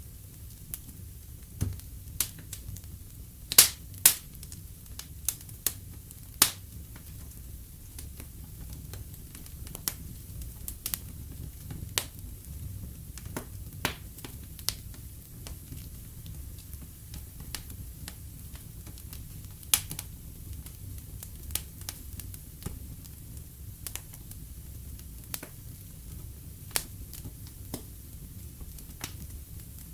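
Wood fire in a fireplace crackling: irregular sharp pops and snaps over a low steady rumble, with two loud pops about four seconds in.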